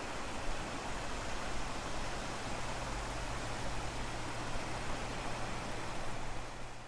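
Steady rushing noise with a constant low hum beneath it.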